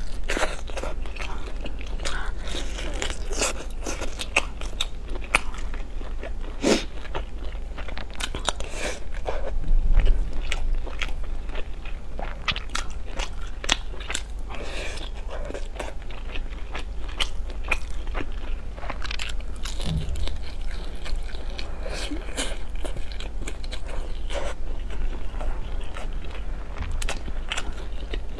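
Close-miked eating: wet chewing, biting and smacking as meat is pulled off the bone and eaten with rice, with many short crunchy clicks over a steady low hum. A dull thump about ten seconds in is the loudest moment.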